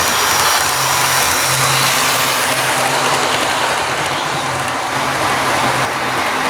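Bachmann HO scale model train running on its track: a steady whir and hiss from the locomotive's electric motor and the wheels on the rails, with a low hum that comes and goes. It is running smoothly.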